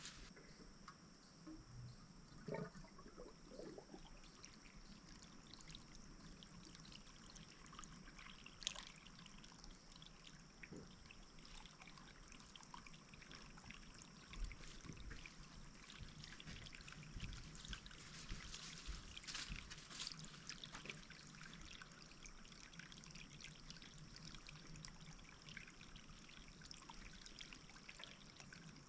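Faint trickle of running water, steady with a few light ticks, as the water is turned back on to the repaired line.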